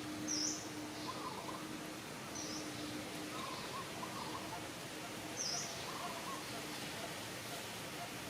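Short, high chirping calls, three of them a few seconds apart, with softer lower twittering between, over a steady outdoor hiss.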